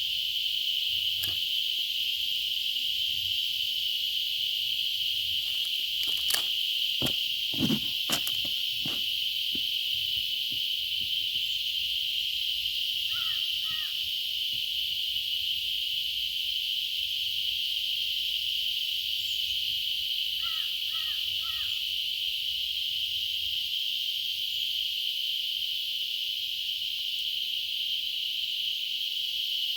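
A steady, high insect chorus, like crickets or cicadas, with a bird calling twice in short runs of three notes. A few clicks and knocks come about a quarter of the way in.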